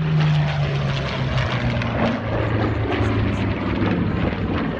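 Propeller warbird's piston engine flying past, its drone dropping in pitch over the first second or so as it passes, then running on steadily.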